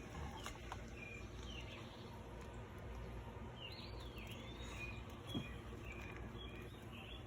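Faint birdsong: scattered short chirps and a curving whistle, over a low steady background hum.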